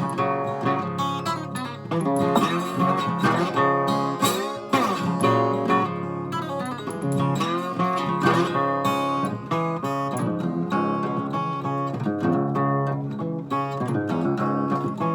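Acoustic guitar music: plucked and strummed chords and notes played continuously.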